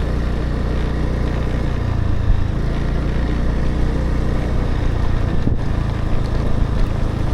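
Motorbike engine running at low speed over a rough, potholed track, with road and wind noise; the engine note steps up about two seconds in.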